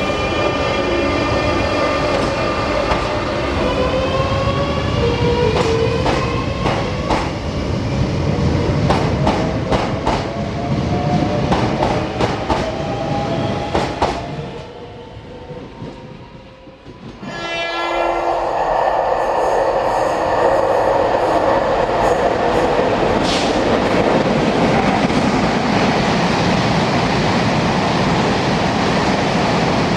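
A train gathering speed, its motor whine rising steadily in pitch while the wheels click over rail joints. About halfway the sound drops away abruptly, and a few seconds later a train passes loudly and steadily.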